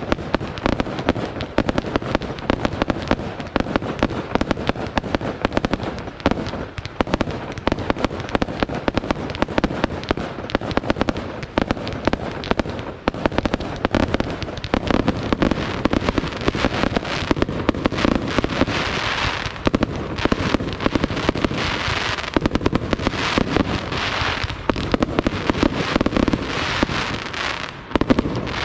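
Fireworks display in a rapid, unbroken barrage of bangs and crackles, many reports a second. Denser, sharper crackling comes in waves in the second half.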